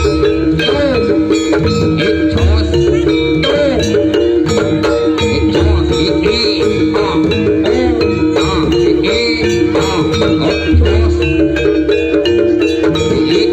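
Javanese jaranan music at full volume: a gamelan-style ensemble of tuned metal percussion and drums playing a dense, steady rhythm, with regular deep low strokes.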